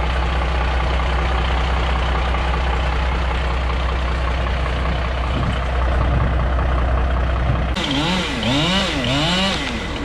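A heavy engine runs steadily at idle. About three-quarters of the way through the drone cuts off abruptly, and a pitched sound rises and falls several times in quick swoops until near the end.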